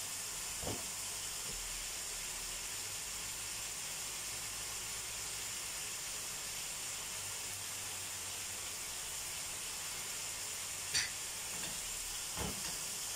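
Liver and sausage frying in two pans, a steady sizzle, with a few light knocks as the food is stirred in the pan.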